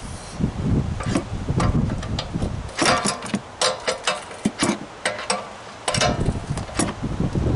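Hand tools and metal parts clicking and knocking irregularly while an air compressor is taken apart, with rumbling handling noise in two stretches.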